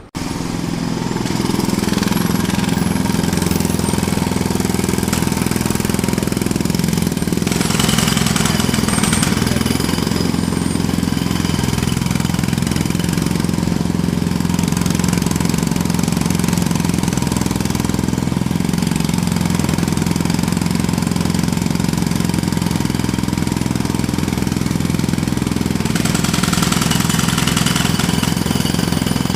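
Jackhammer running continuously, cutting in suddenly, with a steady low machine hum under the rapid hammering. The hammering turns harsher and brighter twice, around eight seconds in and again near the end.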